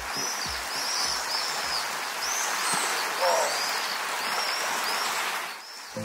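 Birds chirping: many short, high, arched calls several times a second, with one lower call about three seconds in, over a steady hiss of outdoor ambience.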